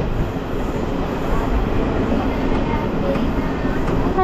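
Steady running noise of a moving passenger train heard from inside an LHB chair-car coach: the rumble and rattle of wheels and coach body on the track.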